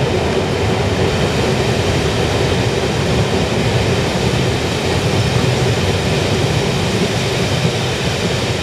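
Steady running noise of a passenger train, heard from on board as it rolls through a station: wheels on rail with a low rumble.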